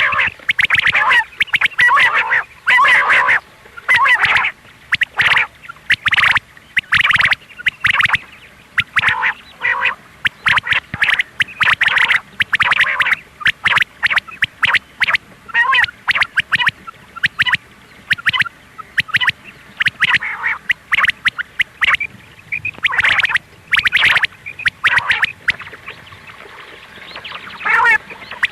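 Female quail giving its harsh, rapid calls in clusters, with a short lull near the end. It is a recorded lure call played to draw quail in for hunting.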